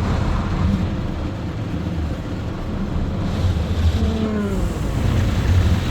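Mark VII ChoiceWash XT automatic car wash running over the car, heard from inside the cabin: a steady low rumble under a hiss of spraying water that swells about three seconds in.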